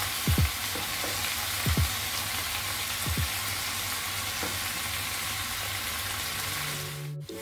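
Carrot and bell pepper strips sizzling steadily in a hot frying pan as honey is spooned in, with a few short low knocks. The sound drops out briefly near the end.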